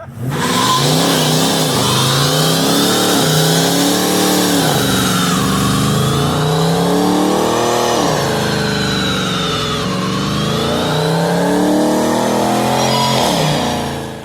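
Car engine revving hard, its pitch climbing and falling several times, with sharp drops at about eight and ten seconds in.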